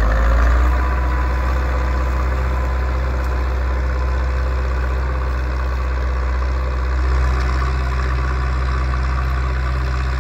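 Zetor 6245 tractor's four-cylinder diesel engine running steadily under load while pulling a plough, swelling slightly near the start and again later.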